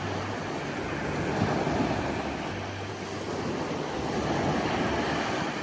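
Steady rushing noise of waves, with wind on the microphone.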